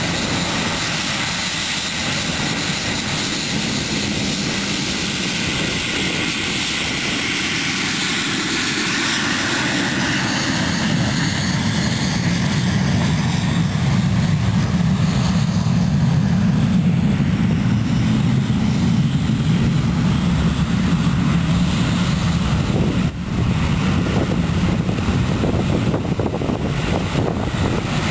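A departing aircraft's engines running. Early on, the engine tone glides down in pitch as the plane passes. About halfway through, a steady low rumble grows louder.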